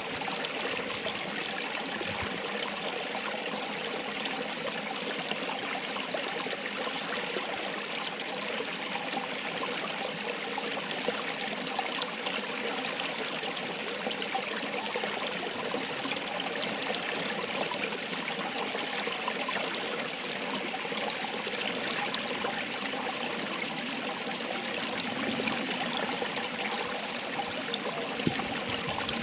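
Running water flowing steadily: an even, continuous rush with a light trickle in it.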